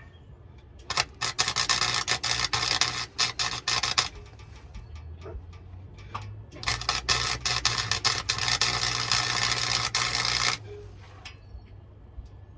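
Welding arc crackling on a truck exhaust pipe in two runs, about three and four seconds long, over a steady low hum.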